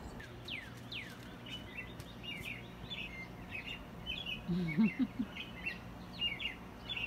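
Songbirds chirping: a busy run of short, high calls, with a few downward-sweeping notes in the first second. A person makes a brief voiced sound about halfway through.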